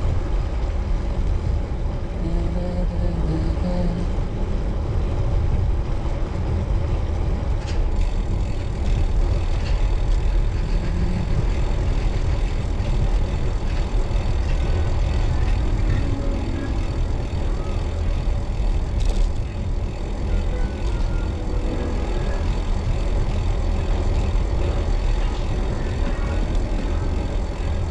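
Steady low rumble of wind buffeting the microphone while riding a road bicycle.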